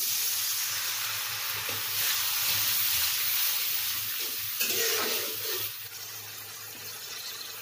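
Fried onion and spice paste in a hot karahi sizzling as a little water is added and stirred in with a spoon. The sizzle dies down sharply about two-thirds of the way in.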